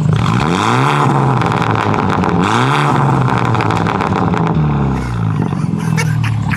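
Car engine idling, then revved hard twice, each rev rising and falling back within about two seconds (peaks about a second in and again about three seconds in), then given a smaller blip near five seconds before settling back to idle.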